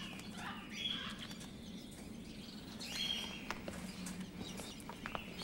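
Cage birds chirping and calling, with short calls near the start and again about three seconds in, over a low steady hum.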